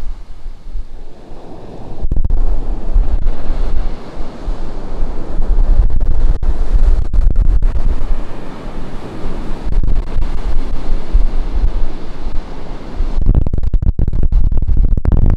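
Ocean surf breaking and washing on a beach, swelling and easing every few seconds. Wind buffets the microphone, adding a heavy low rumble.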